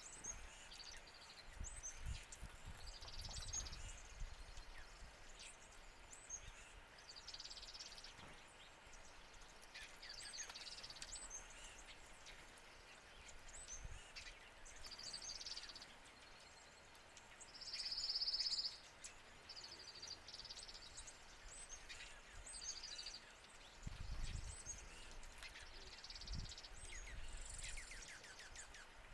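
Small songbirds at a feeder giving frequent short, high chirps and call notes, with one louder, buzzy call partway through. A low rumble comes in near the end.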